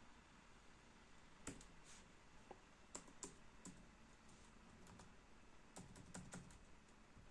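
Faint, separate key presses on the replacement keyboard of an MSI Prestige 15 laptop. The keys are pressed one at a time at an uneven pace, as in a key-by-key keyboard test, with a quicker run of presses about six seconds in.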